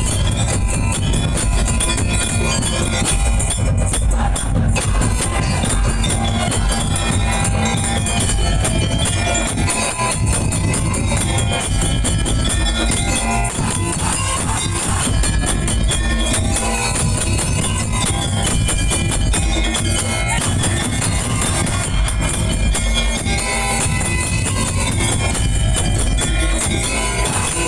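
Madurese daul music played loud and without a break: heavy booming drums and jingling tambourine, with a high melody rising and falling over them.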